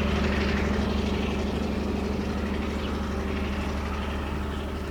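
ÖBB Class 2050 diesel locomotive's engine running with a steady low drone, slowly fading as it moves away.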